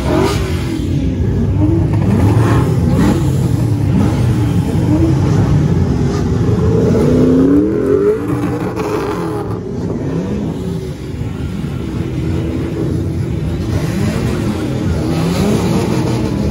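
Many car engines revving at once, their pitches rising and falling out of step and overlapping in a continuous din. This is a group rev of show cars.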